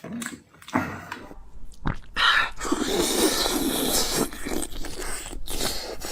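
Close-miked biting and chewing of crunchy food. A few sharp clicks come in the first two seconds, then dense, steady crunching from about two seconds in.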